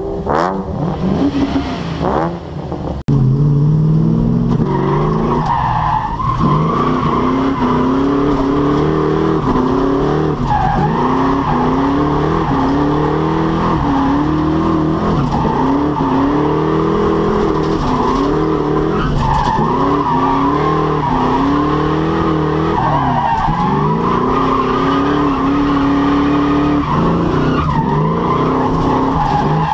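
Foxbody Mustang's 5.0 (302) V8 revving hard, its pitch climbing and falling back every second or two, while the tires squeal and skid through a drift. Heard from inside the cabin.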